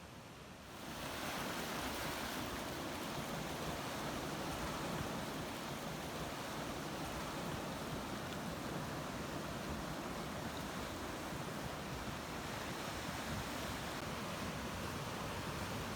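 Ocean surf: a steady wash of waves that comes up about a second in and holds level.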